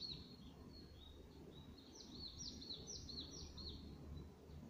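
A small songbird singing faintly: a quick run of repeated high, down-slurred notes starting about two seconds in, over a steady low background noise.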